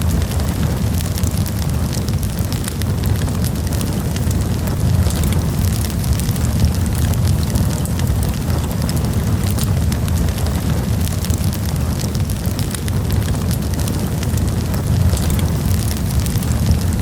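Campfire burning wood: a steady low rumble of the flames with frequent sharp crackles and pops.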